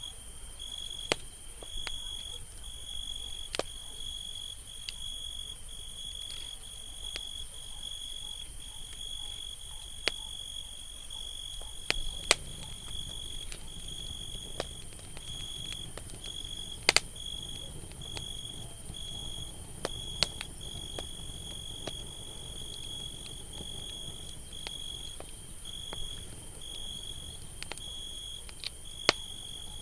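Campfire crackling, with scattered sharp pops and a low rush of flame that grows a little about twelve seconds in. Over it, a cricket chirps in short, high, evenly spaced pulses.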